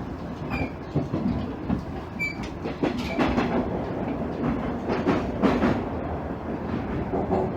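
KiHa 110 series diesel railcar running at speed, heard from inside the car: a steady rumble with wheels knocking irregularly over rail joints.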